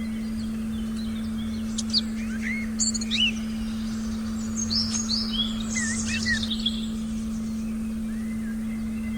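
Wild birds chirping and whistling in quick, varied calls, busiest in the middle and sparse at the start and end, over a steady low hum from a continuous meditation tone.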